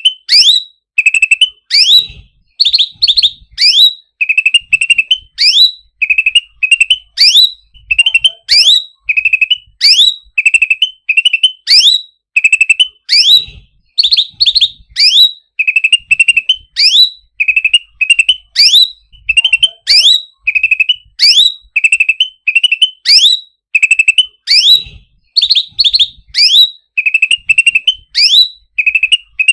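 Cucak ranting bird calling over and over, loud and fast: sharp rising whistled notes alternating with short rapid trills, repeated without a break.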